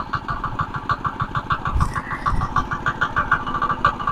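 Mini power tiller's small engine running steadily at low throttle, with a rapid even chugging beat of about eight pulses a second. Two heavier low thumps come about two seconds in.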